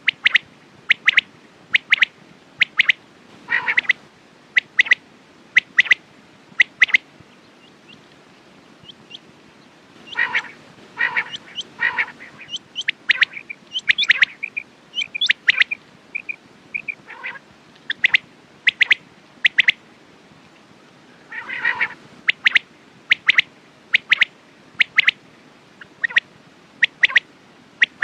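Quails calling: short, sharp calls repeated in quick series, with a couple of brief pauses between runs.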